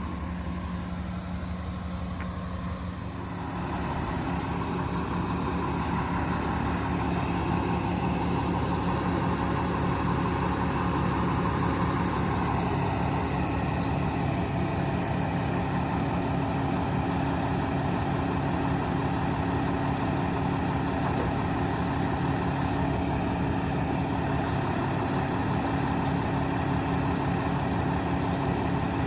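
Cummins 8.9 diesel engine of a Kenworth T370 truck running steadily at idle, getting a little louder about three and a half seconds in and then holding steady.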